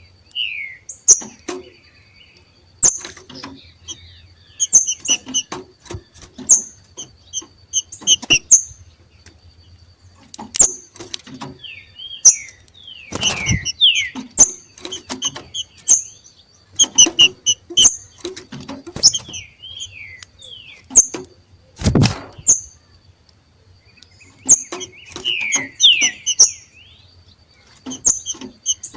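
Green-winged saltators (trinca-ferro) calling in their 'macheado' display: clusters of short sharp chips and quick falling whistled notes, repeated every second or two. Two louder thumps come about 13 and 22 seconds in, and a faint steady high tone runs underneath.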